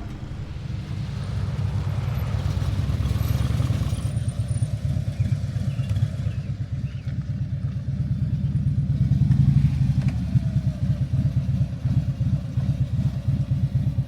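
Motorcycle engine running while riding, with fast, even firing pulses that grow louder over the first several seconds.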